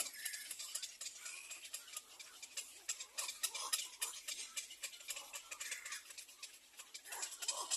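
Ducklings peeping, with many small clicks and scratching sounds around them.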